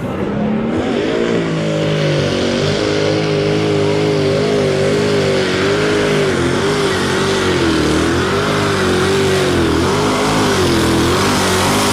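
Modified pulling tractor's engine revving up in the first second, then held at high revs under load, its pitch wobbling up and down.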